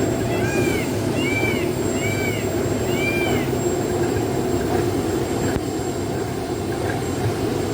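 A small railway train running with a steady low rumble, overlaid by a rhythmic high squeak that rises and falls about once every 0.7 seconds and stops about three and a half seconds in.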